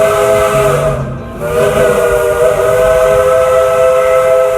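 Steam locomotive's chime whistle sounding a chord of steady notes over hissing steam. One blast cuts off about a second in, and after a short gap a second, longer blast holds on.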